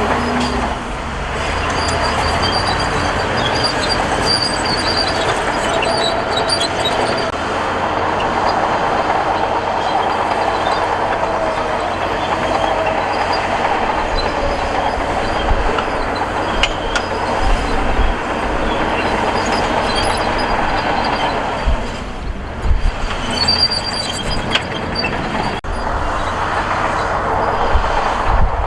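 Bulldozer at work: its diesel engine running steadily under load, with short high metallic squeals now and then, typical of steel crawler tracks, and a few knocks near the end.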